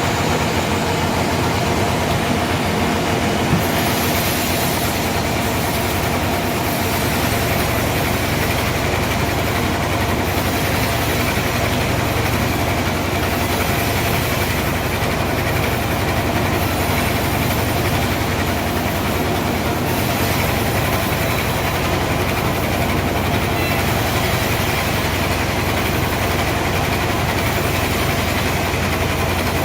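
Sawmill machinery running with a steady drone and a brief knock about three and a half seconds in.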